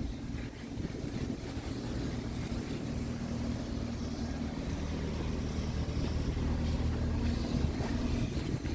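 Scania P truck's diesel engine idling steadily with a low, even hum.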